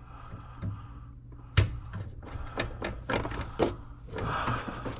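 A series of sharp clicks and knocks of hand tools and small parts being handled while screws are taken out, the loudest about a second and a half in, over a steady low hum.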